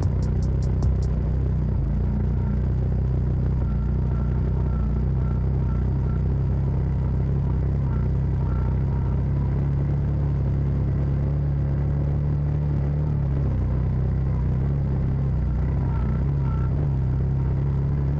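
Side-by-side UTV engine running at a steady speed while driving, a low, even drone with little change in pitch.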